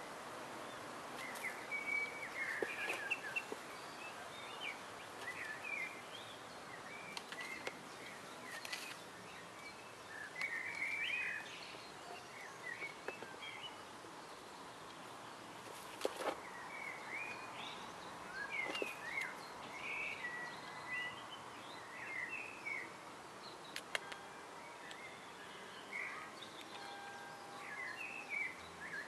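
Small birds chirping in short repeated calls over a steady outdoor background hiss, with a few sharp clicks scattered through.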